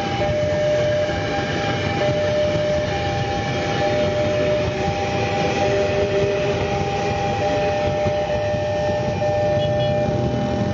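KRL Commuterline electric commuter train running along the tracks: a steady rumble of wheels on rail, with steady high tones over it.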